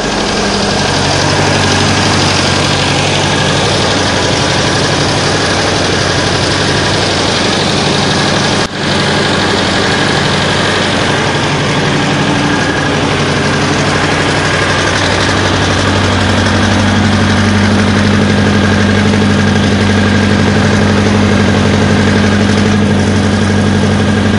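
DT-75 crawler tractor's diesel engine idling steadily just after a cold start at about minus 20, with a brief drop in level about nine seconds in and a somewhat stronger low note in the second half.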